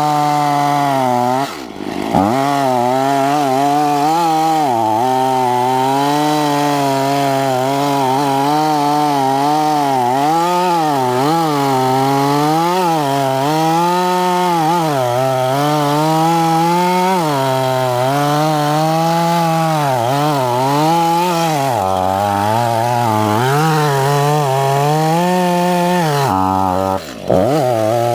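Stihl two-stroke chainsaw running at high revs and cutting wood, its pitch rising and falling as the chain takes load. Twice, about a second and a half in and near the end, the engine speed drops sharply for a moment and then climbs back.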